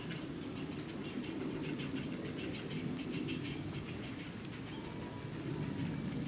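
Quick runs of short, high chirps, several a second, over a steady low rumble. The chirps are densest in the first half and thin out after about three seconds.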